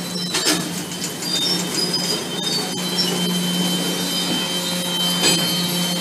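Boxcars of a freight train rolling past at close range: the steady rumble of steel wheels on the rails, with a few sharp knocks and a thin, high wheel squeal through the middle and later part.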